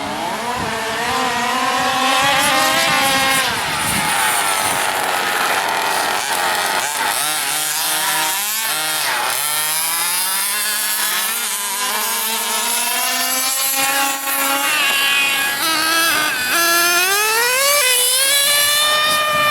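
Small two-stroke engines of several large-scale RC cars revving as the cars make passes. Several engine notes overlap, their pitch rising and falling as they speed up and slow down, with a high rising whine near the end.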